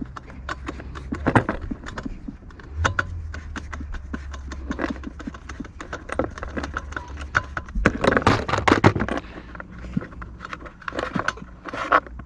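Irregular clicks, taps and scrapes of a screwdriver and loose screws against the plastic housing of a Homelite leaf blower as it is taken apart, busiest about eight seconds in.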